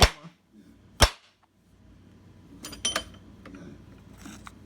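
Hammer striking a steel socket extension set in a copper sleeve inside a lawnmower wheel, rounding out the sleeve: a sharp metallic strike at the start and another about a second in, then a few lighter ringing clinks about three seconds in.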